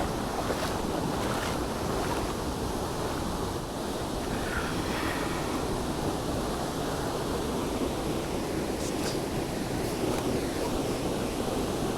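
Steady rushing of river water tumbling over rocks through rapids and small falls, an even, unbroken noise.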